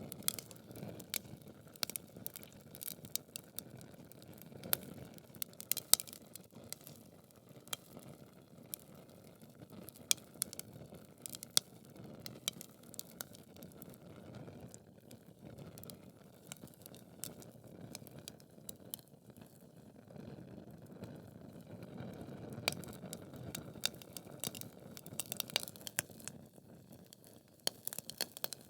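Wood fire burning in a fireplace: logs crackling with frequent irregular sharp pops and snaps over a low steady rush of flames.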